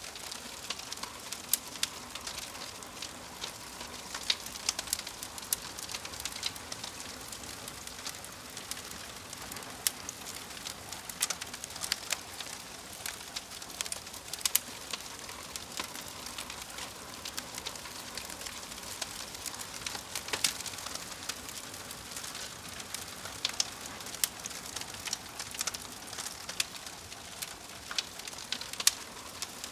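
Wood fire in a fireplace, burning logs crackling and popping in irregular sharp snaps over a steady soft hiss.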